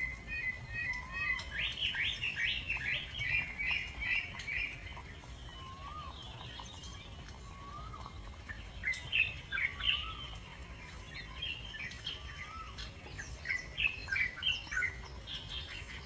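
Birds chirping in three quick clusters of high, sharp notes, with a few soft, short rising whistles in between, over a steady low rumble.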